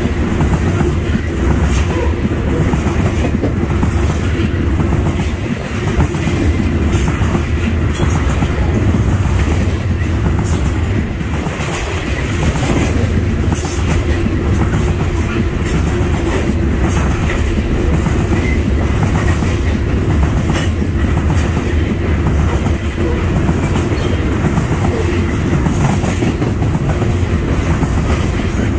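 Coal train's open-top hopper cars rolling past close by: a loud, steady rumble of steel wheels on rail with repeated clacking as the wheels cross rail joints.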